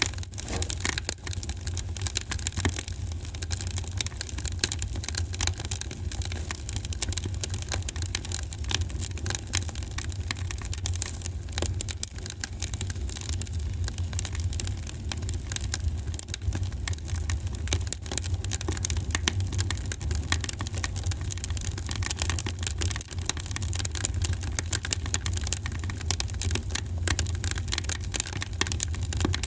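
Fire in a fireplace crackling and popping continuously with many small irregular snaps, over a steady low rumble.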